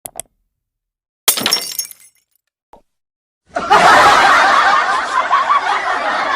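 Glass-breaking sound effect: a sharp crash with ringing, tinkling shards about a second in that dies away within a second. Past the halfway point a loud, continuous, dense din starts and carries on.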